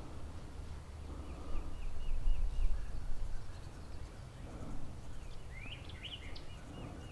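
Small birds calling over wind rumble on the microphone: a run of short repeated high notes, about four a second, early on, then a few quick rising chirps a little before the end.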